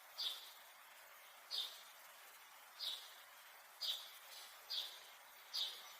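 A bird repeating a short, high chirp about once a second, six times, over faint room hiss.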